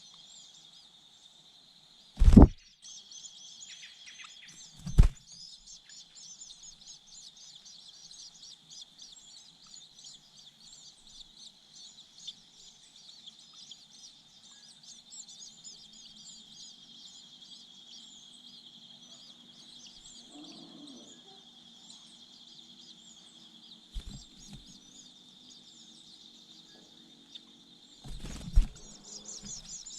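Birds chirping many short notes over a steady high insect drone. Two loud knocks come a few seconds in, and a faint low hum joins after the middle.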